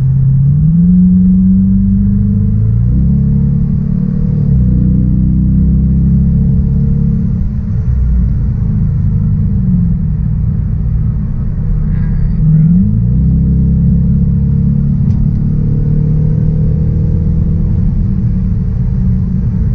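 2021 Dodge Charger R/T's 5.7-litre HEMI V8 running on its factory exhaust with a deep rumble. The engine speed rises about a second in, then steps down and up several times, with a quick rise in pitch about two-thirds of the way through.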